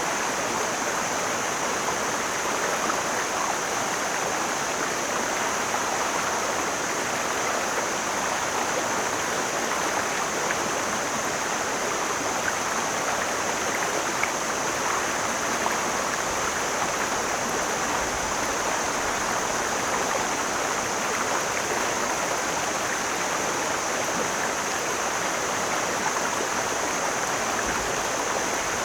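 Mountain stream flowing, a steady rushing and babbling of water that holds an even level throughout, with a steady high-pitched hiss above it.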